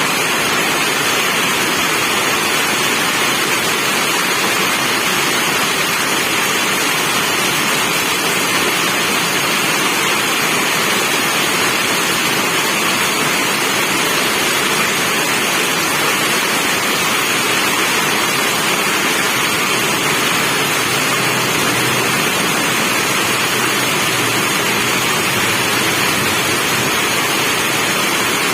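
Steady rain falling: an even, unbroken hiss, with no single drops, thunder or other events standing out.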